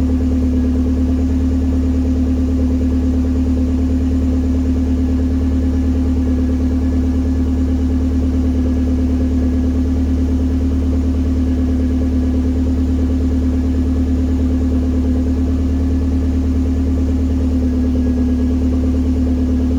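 Eunos Roadster with a swapped-in Mazdaspeed Miata turbocharged 1.8-litre four-cylinder idling steadily after a cold start. It is heard through a 2.5-inch downpipe and a full 2.5-inch exhaust with a Vibrant valved muffler.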